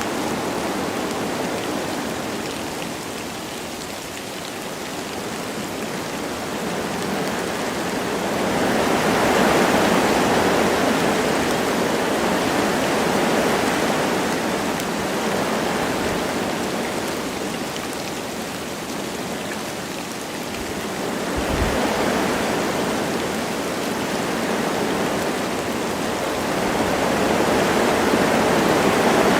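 Wind blowing through forest trees with light rain: a steady rushing noise that swells in slow gusts and eases off again every several seconds.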